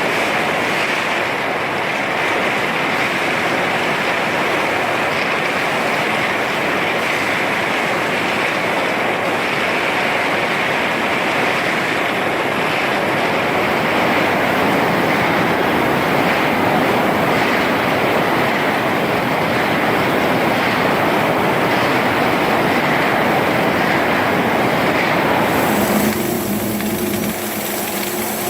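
Steady, harsh hissing noise of electric arc welding in a repair on cement-plant equipment. About 26 s in it cuts abruptly to a different sound: a steady low hum with a bright, high hiss.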